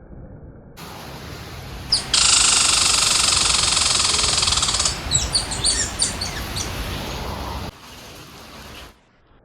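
Birds chirping: a loud, steady high trill from about two seconds in that lasts about three seconds, then a quick run of short sharp chirps.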